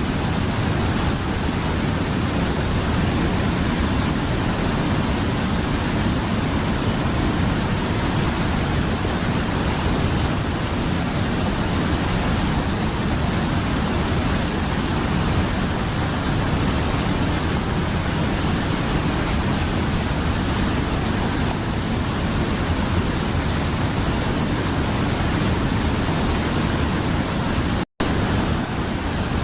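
Mountain river flowing: a steady, dense rush of water that cuts out for an instant near the end.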